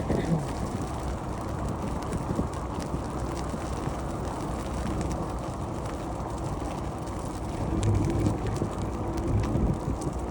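Riding noise from a moving bicycle: wind buffeting the microphone over a steady rumble, with scattered rattling clicks. A low hum joins about eight seconds in.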